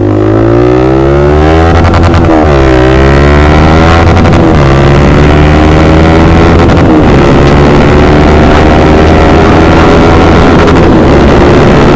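Honda CBR150R single-cylinder engine through an Austin Racing aftermarket racing exhaust, accelerating with a rising pitch. The pitch drops for a gear change about two seconds in and again around four and a half seconds, then climbs slowly and settles into a fairly steady cruise.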